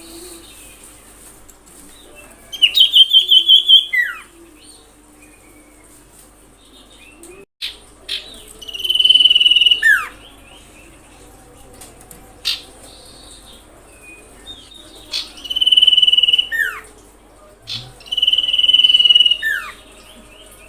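Common iora singing: four loud phrases. The first is a rapid trill of about eight notes, and the other three are long, steady, high whistles. Each phrase ends in a quick falling note, and a few sharp clicks come between them.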